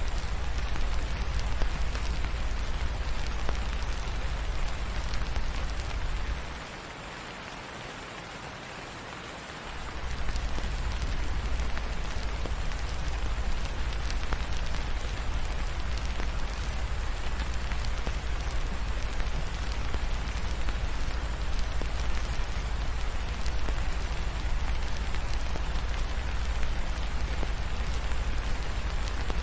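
Steady rain falling, an even hiss with many small drop ticks, over a low rumble. The rumble cuts out for about three seconds some six seconds in, leaving the sound noticeably quieter, then comes back.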